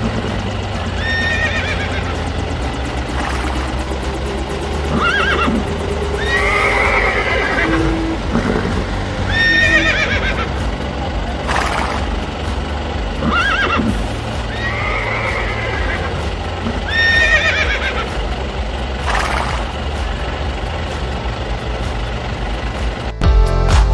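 Horse neighs and whinnies repeated every one to two seconds over a low steady hum. Near the end it cuts to electronic music.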